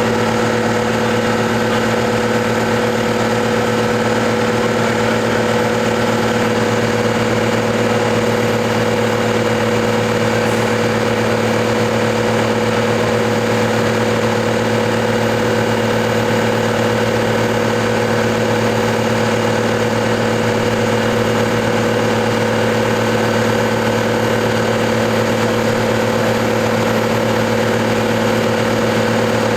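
New Holland T6080 tractor's six-cylinder diesel engine running at a steady, unchanging speed while hooked to a PTO dynamometer for a power test.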